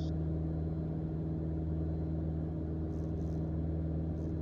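Mooney M20J's four-cylinder Lycoming engine running steadily in flight, heard inside the cockpit as an even, low drone.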